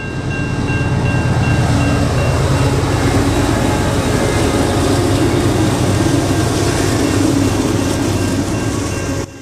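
Long train passing close by: a loud, steady rumble and rattle of wheels and cars on the rails, cutting off suddenly near the end.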